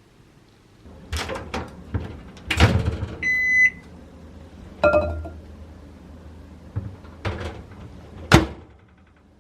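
Clicks and knocks from a household appliance being handled, with one steady electronic beep about three seconds in and a low hum running under most of it. A last sharp click comes near the end.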